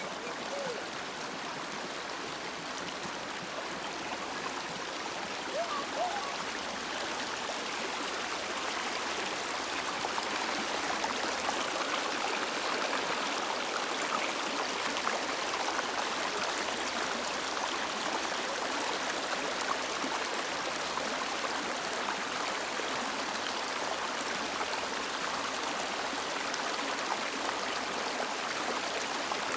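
River water flowing, a steady rush that grows a little louder about eight seconds in.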